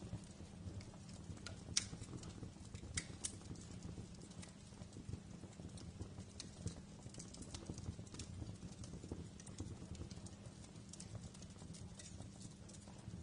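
Wood fire burning in a fireplace: a low, steady rumble of flames with scattered sharp crackles and pops, the loudest pop a little under two seconds in and a couple more about three seconds in.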